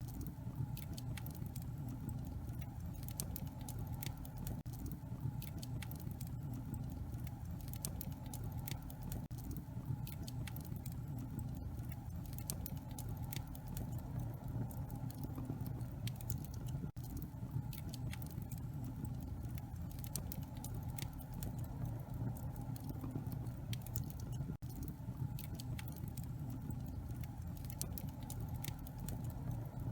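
Wood fire burning in a fireplace, crackling with many irregular sharp pops over a steady low rushing sound.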